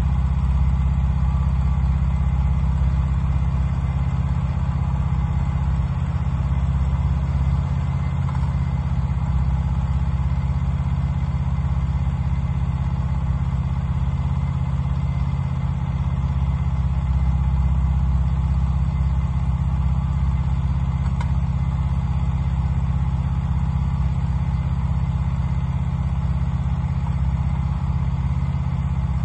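Wood-Mizer LT15 portable band sawmill running steadily.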